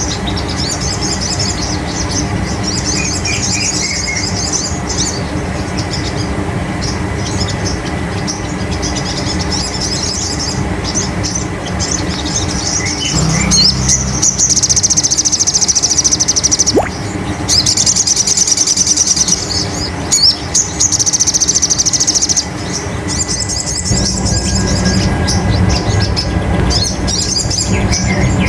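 Sogon (sogok ontong) bird calling in rapid, high-pitched chattering trills, used as a lure call to rouse another sogon. The trills come in short runs at first, then in three long, louder stretches through the middle, over a steady low hum.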